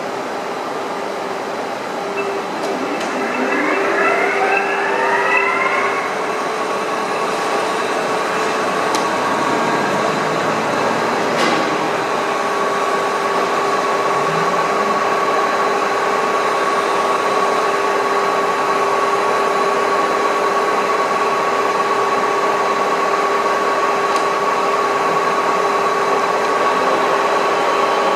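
1983 VDF Boehringer DUE 800 lathe running: its spindle drive whines up in pitch a few seconds in as it comes up to speed, then runs on at a steady speed with a constant whine.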